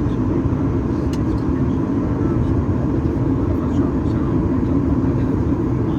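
Steady cabin roar of a Boeing 737 MAX 8-200 in flight, heard inside the passenger cabin: engine and airflow noise that stays even and deep, with a faint steady hum on top.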